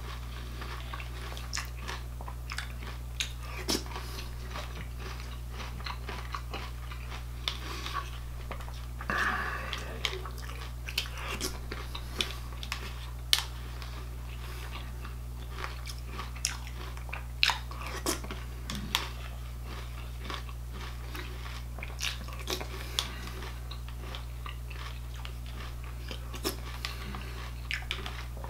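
A person chewing a mouthful of granola cereal, with many short, irregular clicks of a plastic spoon stirring and scraping in a plastic bowl. A steady low hum runs underneath.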